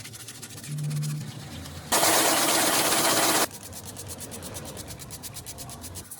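A machine running with a low hum and a fast, even ticking of about eight ticks a second. About two seconds in, a loud hiss cuts in for about a second and a half, then stops suddenly.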